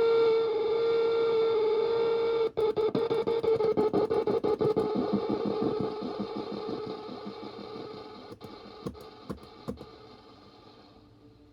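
Home-built feedback noise instrument sounding a steady pitched feedback tone. About two and a half seconds in, the tone breaks into a fast stutter that fades away over the next several seconds, with a few sharp clicks near the end.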